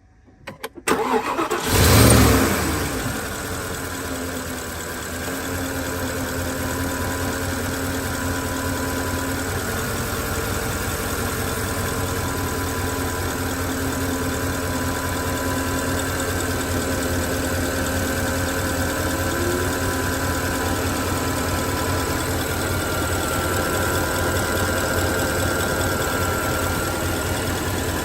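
Porsche Cayenne 957 Turbo S's 4.8-litre twin-turbo V8 (M48.51) starting: a brief crank, the engine catches with a rev flare about two seconds in, then settles into a steady idle.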